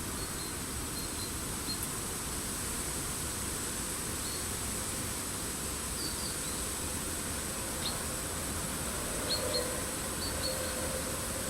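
Small songbirds giving short, thin, high call notes at scattered moments, several close together about nine to ten seconds in, over a steady high-pitched hiss of forest ambience.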